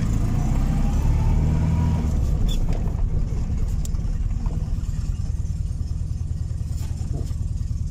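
Fiat 126p's air-cooled two-cylinder engine, freshly started with a little choke, running as the car pulls away slowly, heard from inside the cabin. The engine note rises over the first couple of seconds, then holds steady.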